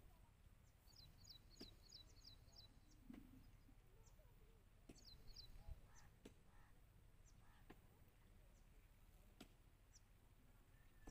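Near silence outdoors, with faint bird chirps: a quick run of high notes about a second in and a shorter run around five seconds, plus a few faint clicks.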